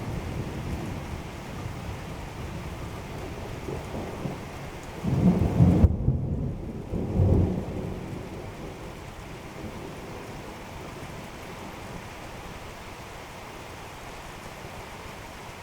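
Steady rain hiss with rolling thunder. About five seconds in, a louder low rumble of thunder swells and rolls for roughly three seconds, with a second peak near the end of it, before it settles back to steady rain.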